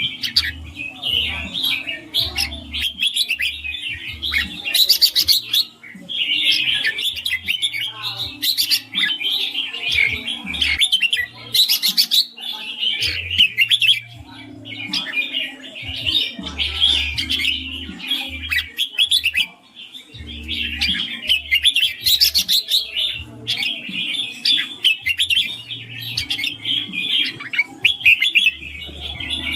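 Red-whiskered bulbul singing, a rapid, nearly continuous run of clear chirping and warbling notes with only brief pauses.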